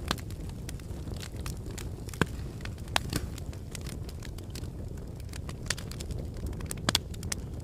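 Wood fire burning in a fireplace: a steady low rumble of the flames with irregular sharp crackles and pops, a few louder ones scattered through.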